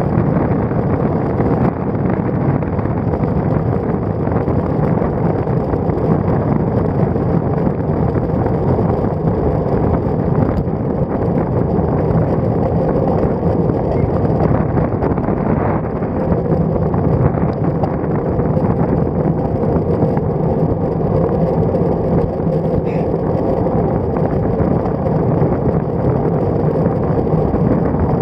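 Steady wind rushing over a road bicycle's stem-mounted action camera's microphone as the bike rides along, mixed with tyre and road noise; a dense, low, unbroken rumble.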